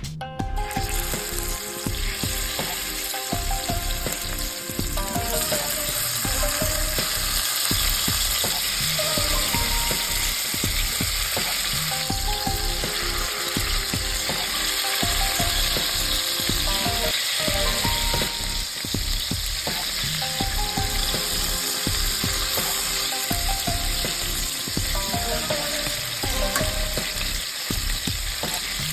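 Food sizzling as it fries in hot oil in a pan: a steady crackling hiss.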